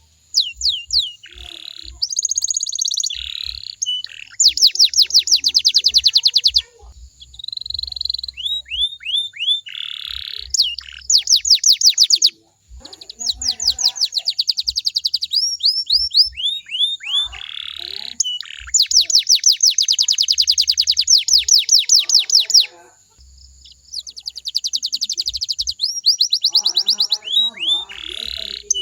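Domestic canary singing: long, fast trills of rapidly repeated sweeping notes, phrase after phrase with short breaks in between.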